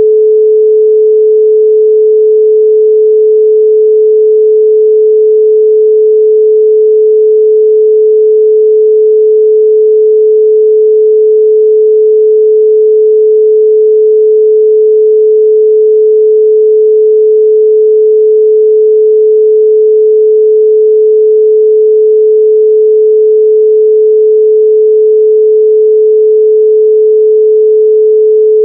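A continuous 432 Hz pure sine tone held at one steady pitch and level, with no overtones.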